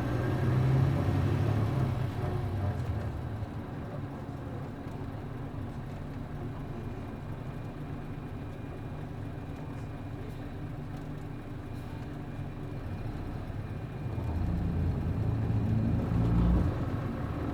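City bus's MD92TJ diesel engine heard from on board. It runs louder for the first two seconds, settles to a steady, quieter idle, then works harder again from about fourteen seconds in.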